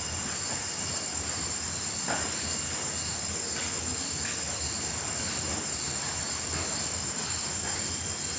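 Night insect chorus of crickets and grasshoppers: a steady, high-pitched trill with a lower chirp pulsing evenly beneath it.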